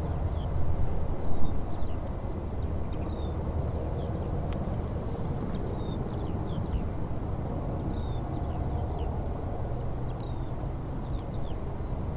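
Small birds chirping in many short, quick, mostly falling notes, scattered throughout, over a steady low rumble.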